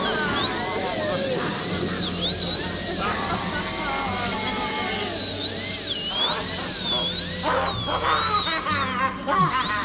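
Horror sound effect: a high-pitched whine that sweeps up and down over and over, held at one pitch for about a second midway, over a steady low hum.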